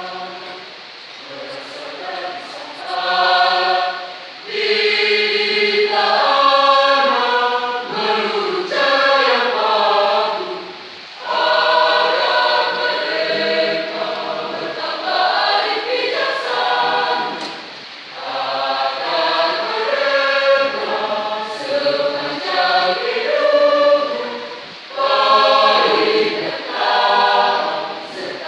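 A choir singing in harmony, in long phrases separated by short breaks.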